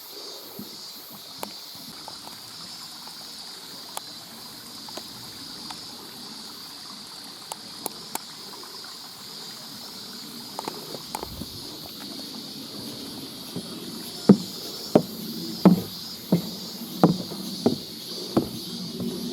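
Footsteps on a wet, streamside mountain trail over a steady hiss of running water; in the last few seconds the steps become heavy and regular, about one every 0.7 s, eight or so in a row.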